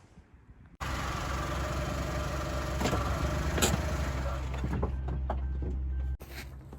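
A steady engine hum with noise over it, cutting in abruptly about a second in and stopping abruptly near the end, with a few light clicks on top.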